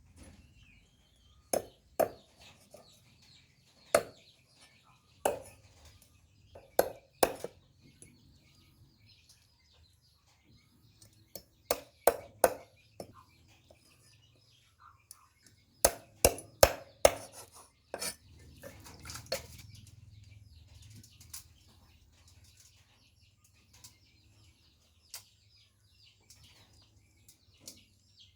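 Irregular sharp knocks of food preparation, some single and some in quick runs of three or four, the loudest run about sixteen seconds in. Birds chirp faintly throughout.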